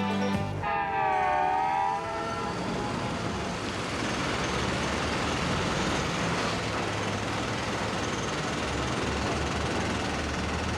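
A train horn sounds one short chord of several notes, bending slightly down and back up in pitch, followed by the steady rumbling noise of a train running.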